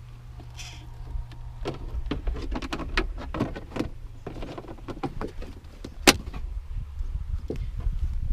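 A string of irregular knocks, clicks and rubbing over a low steady hum, with a sharp loud knock about six seconds in.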